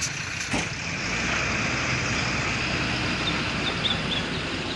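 Truck engine running steadily, with a low rumble that picks up about a second in. Two short knocks near the start, and a few faint high chirps near the end.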